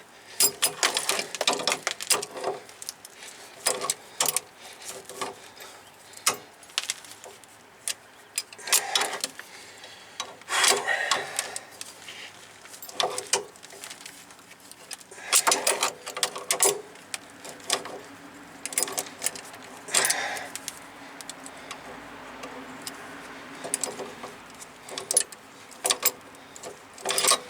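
Wrenches clinking and scraping on a rusted steel brake-line fitting as it is worked loose and unscrewed from the brake hose, in irregular short clicks with a few louder clanks.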